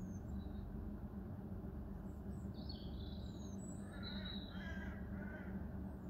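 Birds calling: a songbird's high chirped and whistled notes begin about two seconds in, and a few lower, fuller calls join them over the next second and a half, all over a steady low background hum.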